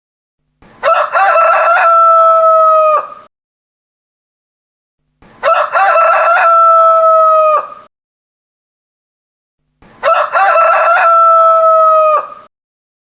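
A rooster crowing three times, evenly spaced about four and a half seconds apart. Each crow lasts about two and a half seconds and ends in a long held note, with silence between crows.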